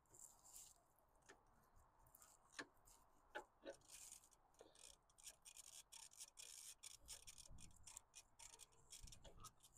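Faint, irregular clicks and scratchy rubbing of metal tools and parts being handled during work on the engine, busier in the second half.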